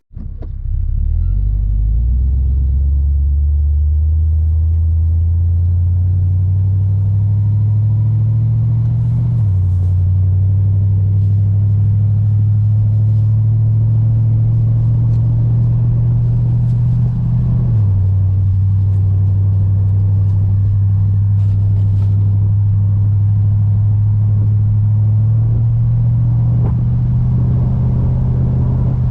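Chevelle with 1 7/8-inch dual exhaust and glasspack mufflers, driven under acceleration: a low exhaust rumble rising in pitch, dropping sharply twice at gear changes about a third and two thirds of the way in, then climbing again near the end.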